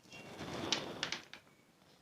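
Eating sounds from a mouth working spicy instant noodles: a noisy slurp lasting about a second, ending in a few short wet clicks of the lips and mouth.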